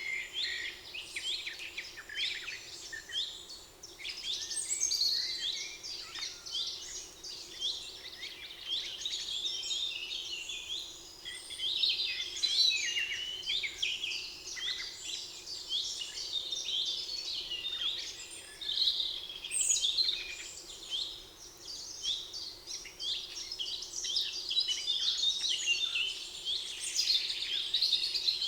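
A chorus of many songbirds singing at once, with dense overlapping chirps and trills throughout, over a faint steady background hum.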